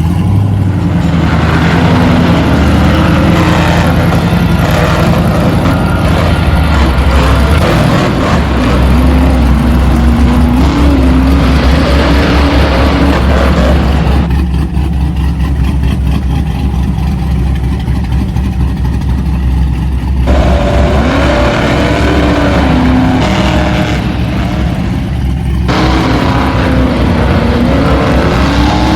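A vehicle motor running continuously, its pitch rising and falling as it revs, with the sound turning duller for several seconds around the middle.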